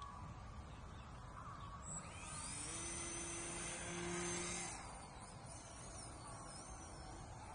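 Electric motor of a small foam RC airplane spooling up to a steady high whine about two seconds in, holding, then cutting back near the middle. After that, a fainter whine wavers up and down in pitch over a steady background hiss.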